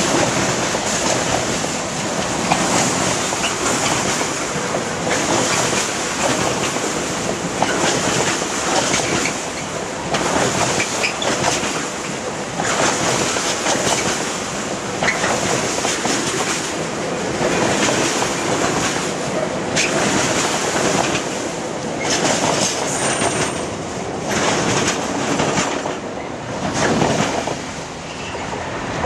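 Freight train wagons rolling past at speed, their wheels clattering over the rail joints in a steady repeating rhythm. There is a brief high squeal about two-thirds of the way through.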